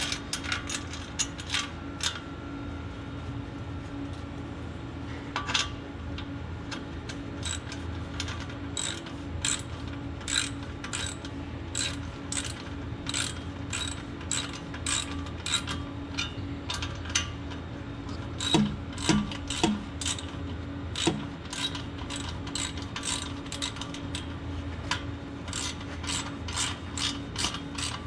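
A ratchet clicking in runs of quick strokes as the nuts of an exhaust pipe clamp are tightened down, over a steady low hum.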